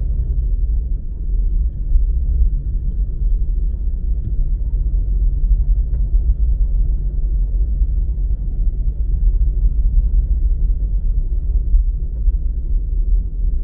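Steady, loud low rumble with no clear tones or rhythm.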